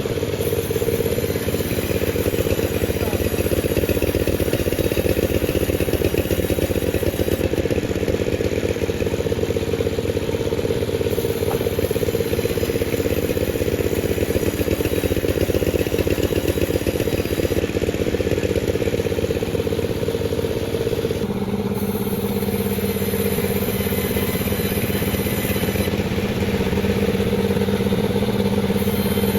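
Panda36 two-stroke chainsaw running steadily. Its engine note shifts about two-thirds of the way through, when a lower steady tone sets in.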